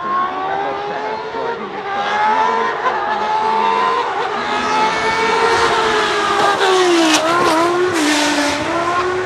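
Historic Formula One race car's engine at high revs as it passes. The pitch climbs, drops briefly about four seconds in, then wavers and dips with sharp crackles between about seven and eight seconds.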